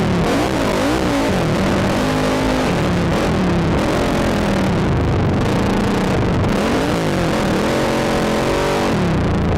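Quad (ATV) engine revving up and down over and over as the throttle is worked, with a steady rushing noise behind it.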